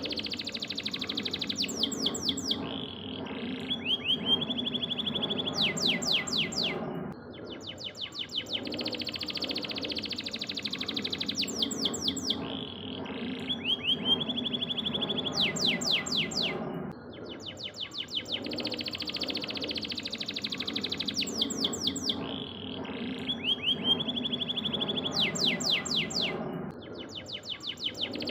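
Domestic canary singing a long, continuous song of rapid trills and fast sweeping notes. The same sequence of phrases repeats about every ten seconds, as in a looped tutor recording played for other songbirds to learn from. A low hum runs under it.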